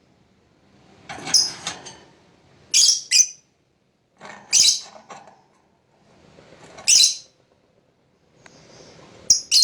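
Lovebird giving shrill, high-pitched calls in short bursts, five in all, about every two seconds, with softer chatter between them.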